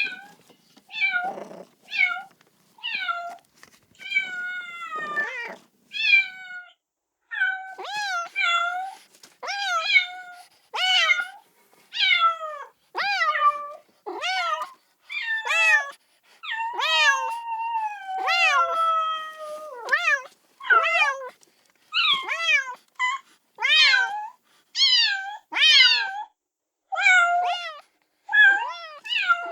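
Kitten meowing over and over, short high-pitched calls about one a second, each rising then falling in pitch: a kitten calling for its mother.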